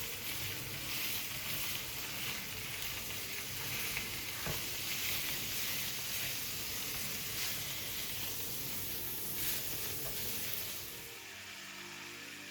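Food frying in a pan, a steady sizzle that cuts off suddenly near the end, with a light knock about four and a half seconds in.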